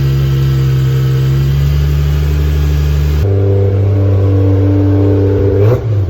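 2JZ straight-six engine in a Nissan 300ZX, held at steady revs through its exhaust. About three seconds in, an abrupt cut switches to a different steady engine pitch, which dips and rises briefly near the end.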